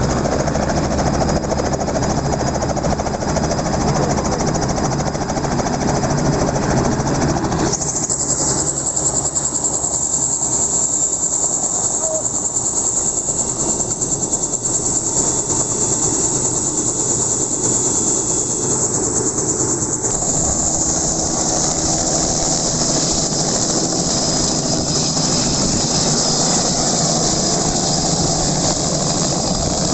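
Helicopter running steadily, with engine and rotor noise. About eight seconds in the sound changes abruptly to a loud high hiss with less low rumble, and about twenty seconds in it goes back to a fuller, lower sound.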